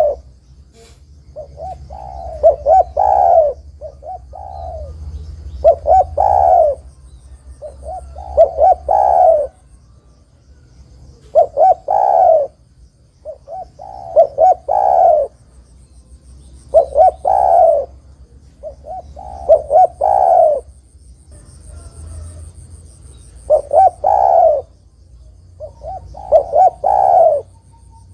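Spotted dove (tekukur) cooing, repeating its multi-note coo phrase about every two to three seconds. A faint high ticking trill runs in the background.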